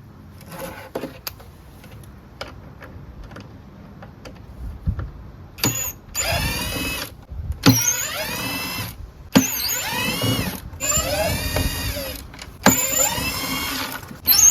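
A cordless drill-driver with a Torx bit backs screws out of a leaf blower's housing panel. After a few seconds of small clicks and handling, it runs in a series of short bursts about a second each, its motor whine rising and falling in pitch with each run.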